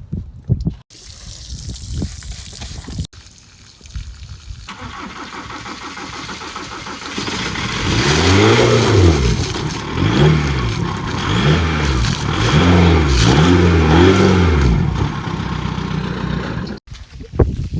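Car engine started and then revved hard several times: about five rises and falls in pitch through the middle of the clip, run up to blow the dirt out of the exhaust.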